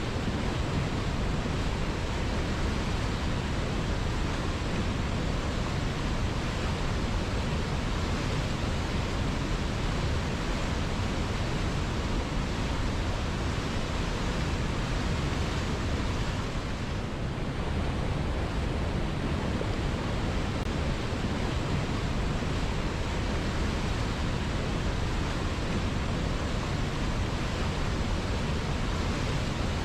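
A river flowing: steady, even rushing of water with no distinct splashes, easing off a little for a moment just past the middle.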